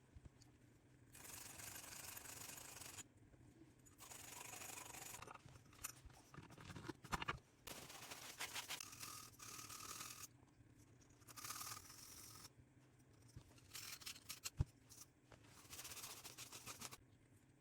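Faint, repeated scrubbing strokes on boiler parts during servicing, in bursts of one to two seconds with short pauses between, and a few sharp clicks.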